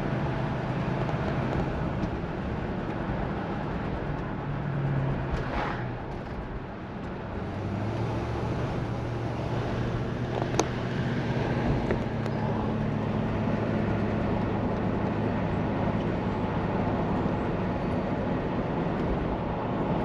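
Inside the cabin of a 1968 Plymouth Fury on the move: the 383 V8 runs under steady tyre and road noise. The engine note eases off about six seconds in and picks up again a couple of seconds later, and a single sharp click comes about halfway through.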